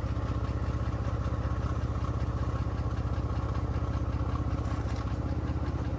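Car engine running steadily, a low, evenly pulsing rumble that does not change.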